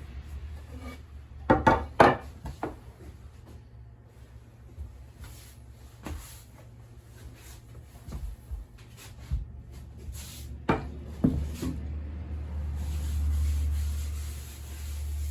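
Irregular knocks and rubbing of utensils handled on a work surface during soba noodle making, with two sharp pairs of knocks and a low steady hum behind them.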